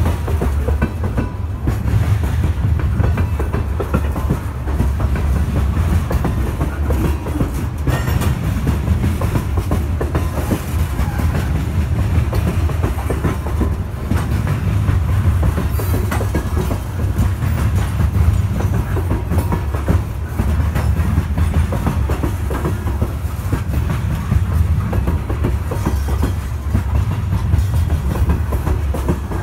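Coal hopper cars of a Norfolk Southern freight train rolling past close by: a steady heavy rumble of steel wheels on the rails with dense clicking and clacking from the wheels.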